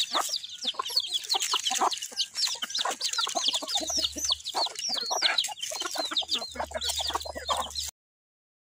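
Chickens calling: many overlapping high, arched cheeps and clucks. The sound cuts off abruptly about eight seconds in, leaving silence.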